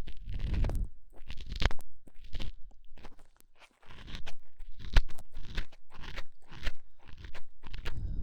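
Ear-cleaning ASMR sounds close to the microphone's ear: irregular crackling scratches and clicks of a tool working in the ear canal, with some low rubbing, and a brief pause about three seconds in.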